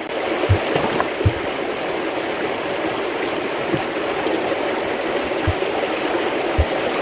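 Running water with a steady rushing sound, with a few soft low thumps scattered through it.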